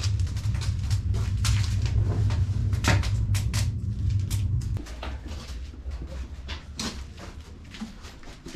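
Irregular clicks and light knocks, with a low rumble underneath for the first five seconds that cuts off suddenly.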